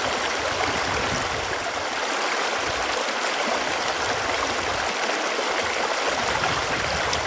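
Running water, a steady, even rush without breaks.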